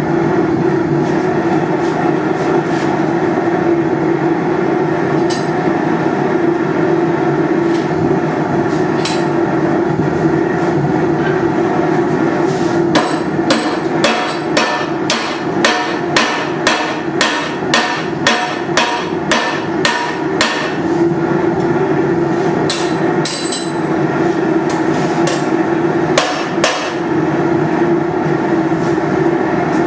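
Hand hammer striking hot steel bar on an anvil while bending a bracket: a few single blows, then a quick run of strikes at about two a second in the middle, then a few more blows. A steady hum runs underneath throughout.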